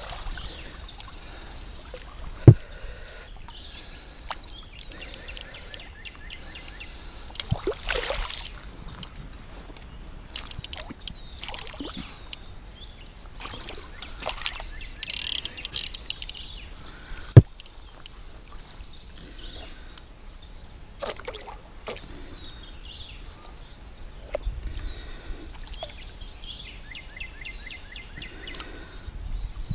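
Handling noises on a kayak while a catfish is unhooked: scattered clicks, rustles and small knocks, with two sharp knocks, one about two and a half seconds in and one about seventeen seconds in, and a quick run of ticks near the end.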